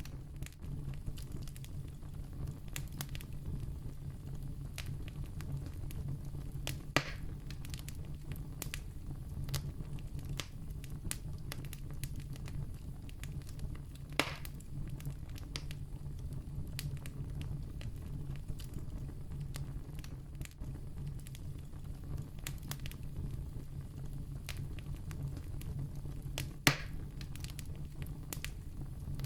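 Wood campfire burning, with a steady low rumble and frequent light crackles. Three louder pops are spread through the stretch.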